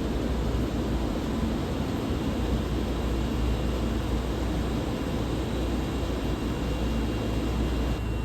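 Steady rumbling hiss of a subway station platform, with a faint constant high whine and no separate events.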